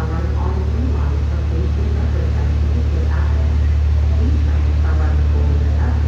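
R160 subway train giving off a steady low rumble that slowly grows louder, with faint voices underneath.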